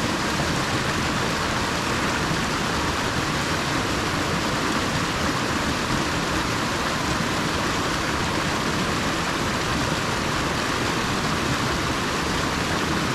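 Small moorland stream running fast over stones, a steady rushing of water.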